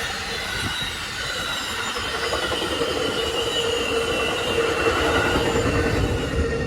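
Passenger train running past on the rails: continuous rolling noise, with a steady squealing tone that sets in about two seconds in and holds.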